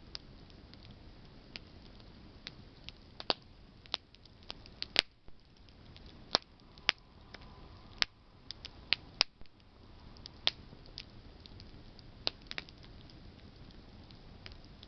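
Campfire of burning branches crackling: irregular sharp pops and snaps over a faint steady hiss. The pops come thickest and loudest through the middle of the stretch.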